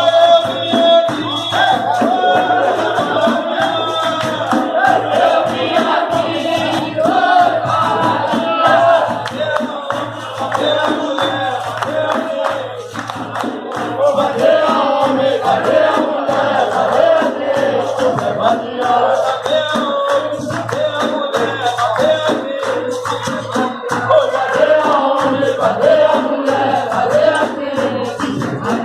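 Capoeira roda music: a group of voices singing together over hand percussion in a steady beat, with a shaker-like rattle.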